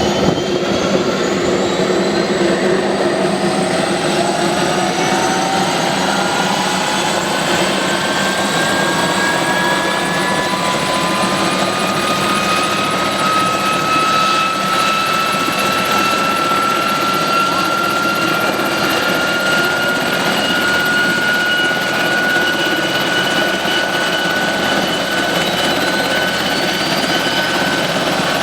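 Aircraft engine running steadily and loudly, with a high whine that climbs slowly in pitch.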